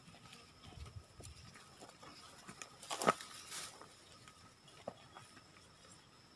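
Scattered knocks and crackles of twigs and dry leaves being handled and stepped on, the loudest knock about three seconds in.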